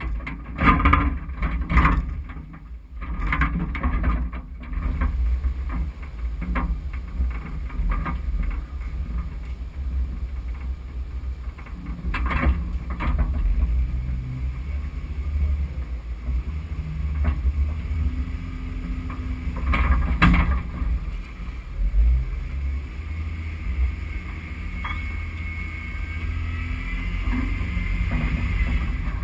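Off-road SUV driving slowly over a rough dirt trail: a steady low engine and drivetrain rumble, with scattered knocks and rattles as the body and suspension go over bumps.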